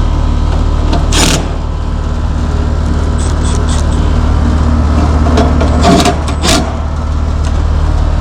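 Steady low hum of running air-conditioning equipment, with sharp metal clanks and rattles about a second in and again around six seconds in.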